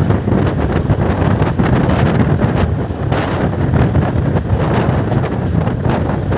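Passenger train running at speed: a steady rumble of the coach wheels on the rails with frequent irregular clicks and knocks, and wind buffeting the microphone.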